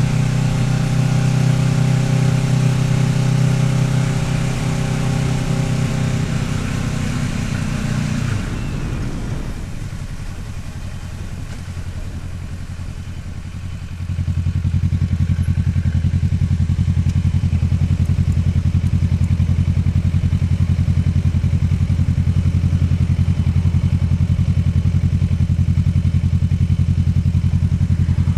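Kawasaki Ninja 650R's parallel-twin engine running under way with wind noise, then easing off and dropping in level about a third of the way in as the wind noise fades; about halfway through it becomes louder again and settles into a steady, evenly pulsing note.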